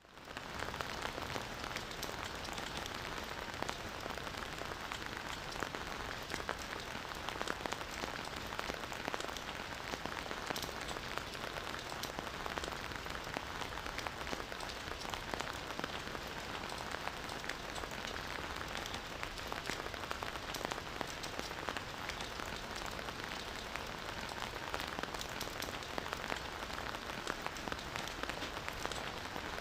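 Steady rain falling, a dense even hiss with many individual drops pattering on surfaces. It swells back in from a brief gap right at the start, then holds steady.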